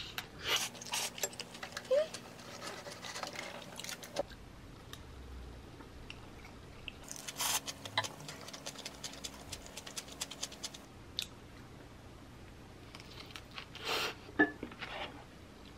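Close-up eating sounds of a mouthful of tofu and wild-chive bibimbap being chewed, with a spoon scraping and clinking in the dish. The crackly chewing comes in three stretches, about half a second in, around the middle, and near the end, with quieter pauses between.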